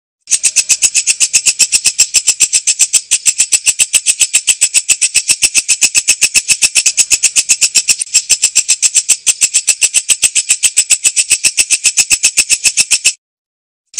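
Walang kecek insect calling: a fast, even train of dry, high clicks, about six or seven a second, that stops briefly just after the start and again near the end.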